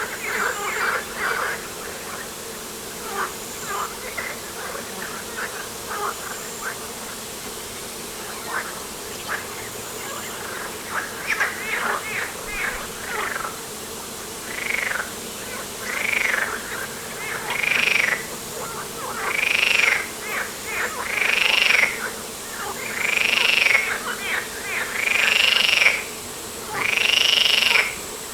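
Frogs calling: a chorus of short, rapid croaks, then from about halfway through a nearer frog's louder, longer call repeated roughly every two seconds, each one louder than the last.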